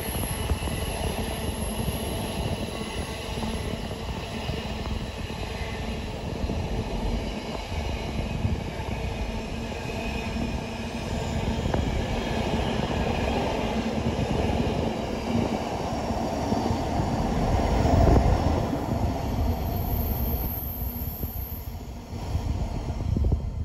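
Container flat wagons of an intermodal freight train rolling past: a steady rumble of wheels on rail with some high-pitched wheel squeal. It swells to its loudest about eighteen seconds in, and the last wagon goes by near the end.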